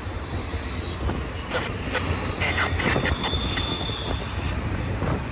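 BNSF intermodal freight train (a Z train) rolling past on the main track: a steady rumble of railcars on the rails with a few knocks, and a thin, high wheel squeal about three seconds in.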